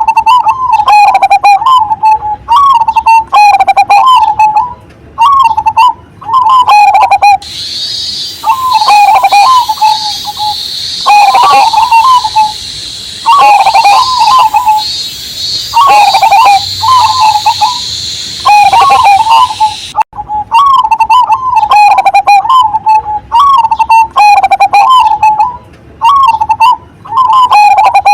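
Zebra dove (perkutut, cemani majapahit strain) cooing loudly in repeated phrases with short gaps. From about 7 s to 20 s a steady high cicada drone sits under the cooing.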